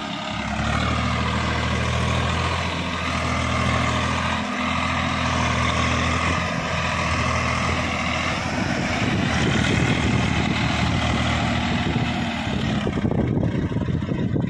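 Swaraj 744 XT tractor's diesel engine running, a steady low engine note for the first half that turns rougher and less even from about halfway on.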